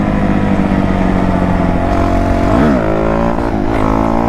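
Dirt bike engine running at steady revs, its pitch dipping and climbing back sharply about two and a half seconds in and again about a second later, as the throttle is eased and opened while the rider holds a knee-knock stunt.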